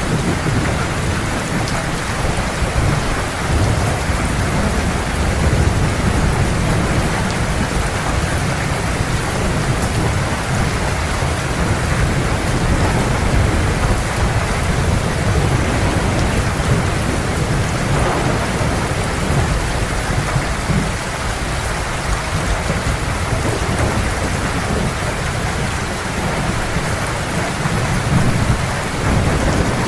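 Heavy rain falling steadily, with low thunder rumbling underneath.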